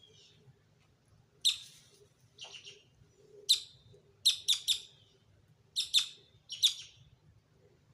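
Wild bird giving a series of loud, short, harsh calls, about nine in all, several coming in quick clusters of two or three.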